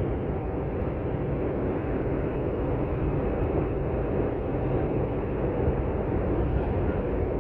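R142 subway car running steadily between stations, heard from inside the car: a continuous rumble of wheels on rail and running gear.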